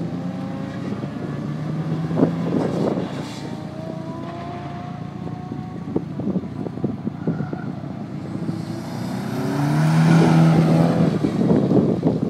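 Nissan S13 Silvia's engine revving up and down as it is driven hard, the note rising and falling with the throttle. Its sound swells into a louder rush about nine to eleven seconds in, over wind buffeting the microphone.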